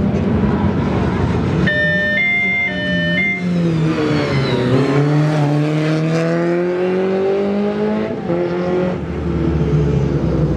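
Rally car engine running hard and accelerating, its pitch climbing steadily for a few seconds and then dropping at a gear change about eight seconds in. For a moment about two seconds in, a high two-tone signal alternates between two pitches over the engine.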